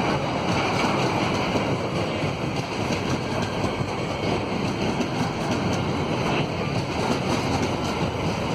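A long train's wagons rolling past, a steady rumbling rush of wheels on the rails with faint clicks.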